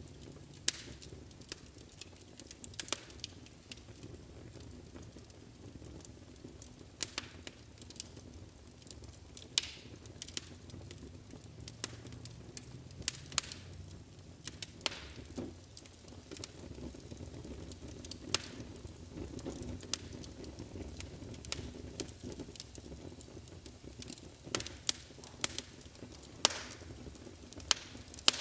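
Wood fire burning in a fireplace: a steady low rumble of flames with irregular crackles and occasional sharp pops.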